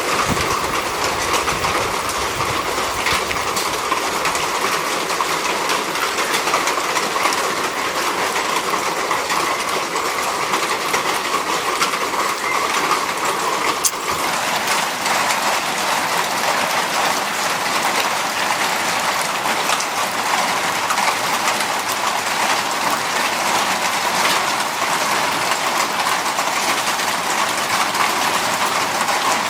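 Heavy monsoon rain falling steadily: a dense, even hiss of drops, with one sharper click about halfway through.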